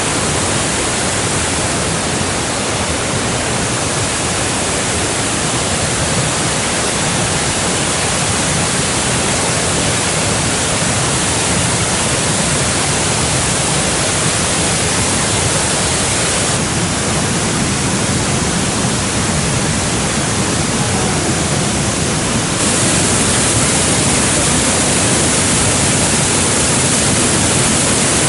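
Rushing water of a mountain stream and waterfall, a loud steady rush that changes character slightly at about 16 and 23 seconds in.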